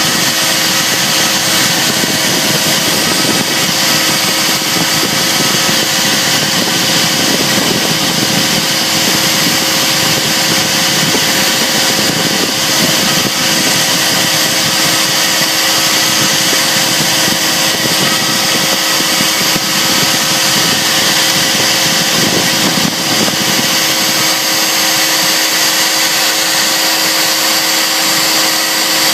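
CNC router spindle running steadily at high speed while routing inlay work for a guitar top: a constant high whine of two steady tones over a loud hiss.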